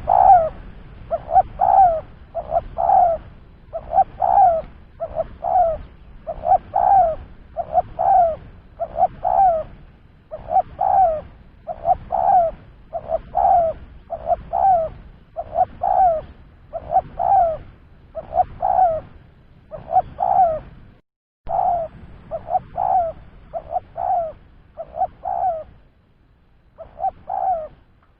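Spotted dove (tekukur) cooing over and over: short, low coos in quick clusters about once a second, with brief breaks about three-quarters of the way through.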